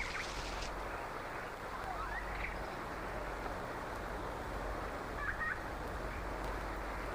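Wildlife ambience: a steady hiss over a low hum, with a few short chirping animal calls about two seconds in and again a little past five seconds.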